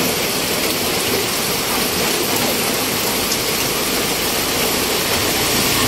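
Heavy rain falling steadily: a loud, even hiss of rain on the ground and surfaces.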